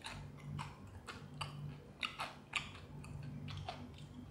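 Crispy fried chicken being chewed close to the microphone: irregular crunches several times a second, the loudest a little past the middle, over a steady low hum.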